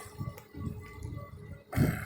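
Wind buffeting a phone's microphones, covered with foam hair rollers, on a moving e-bike: uneven low rumbling gusts, with one louder, brief rush near the end.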